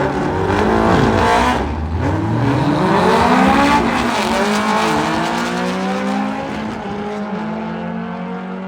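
VW drag car's engine revving hard, its pitch sweeping up and down several times, then holding a steadier note.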